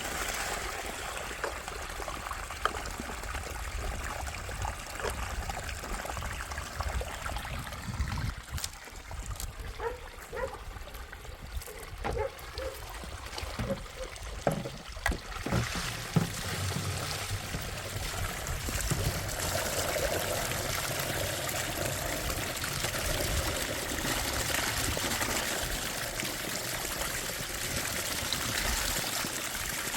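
Water trickling and running steadily, with some irregular small knocks and clicks midway.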